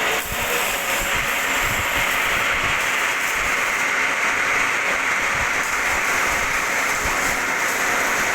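Metal lathe running in a machine shop: a steady, even hiss-like machining noise with a brief dip just after the start.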